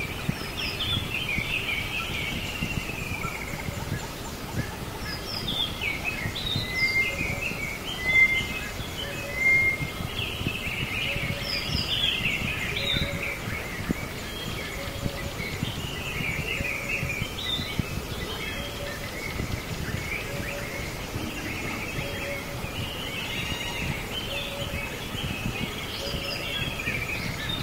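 Several birds chirping and trilling over a steady outdoor background noise, with a soft low note repeating about once a second.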